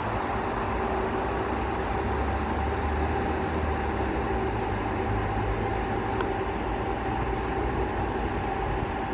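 A train running steadily: a low rumble under an even rushing noise, with a steady hum throughout.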